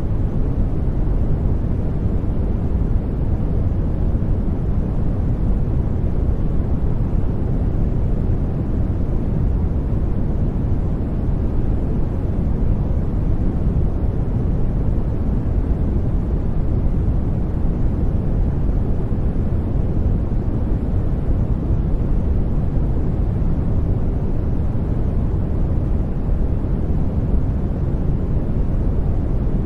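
Continuous soft sleep noise, sold as white noise, heavy in the low end and thinning toward the highs. It holds perfectly even, with no changes or events.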